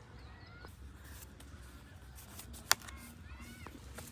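Birds calling with a few short chirps that arch up and down in pitch, over a faint low hum. A single sharp click or knock comes about two-thirds of the way through.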